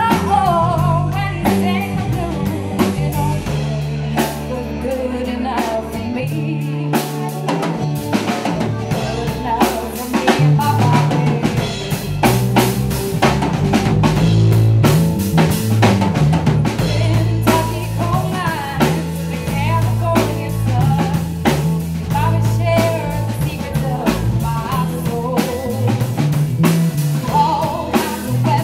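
A live rock band plays a song, with a woman singing lead over a drum kit and a steady bass line.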